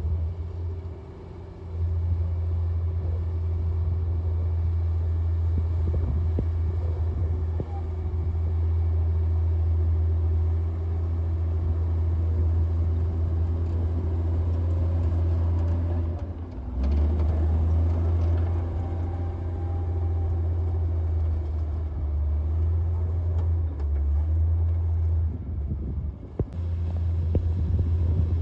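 Komatsu D58P bulldozer's diesel engine running hard under load, a heavy steady low rumble that dips briefly about a second in, around the middle and again near the end.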